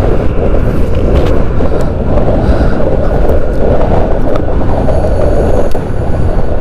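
Loud, steady rushing wind noise on the microphone of a moving motorcycle, with the bike's engine and road noise underneath.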